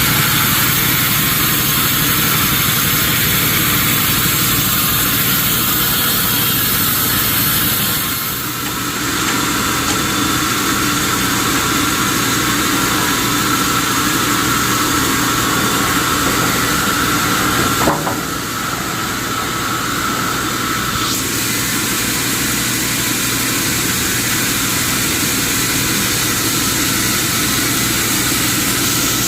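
Sawmill machinery running steadily: a constant hum under a loud hiss. The hiss drops for a moment about eight seconds in, and again after a single click about eighteen seconds in.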